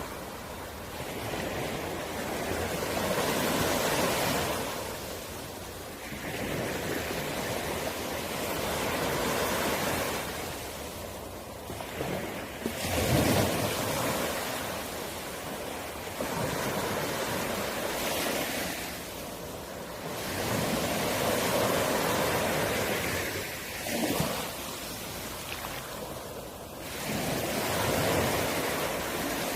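Sea waves breaking and washing up a beach, the surf swelling and ebbing every few seconds, with a sharper, louder crash about 13 seconds in and another near 24 seconds.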